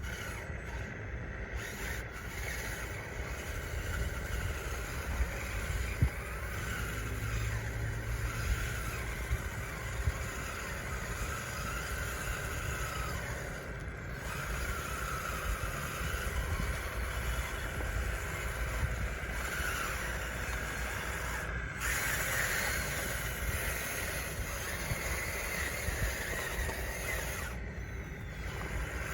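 Radio-controlled bulldozer running, its small electric drive motors whining with a pitch that wavers up and down as it works, over a steady low rumble, with a few sharp clicks, the loudest about six seconds in.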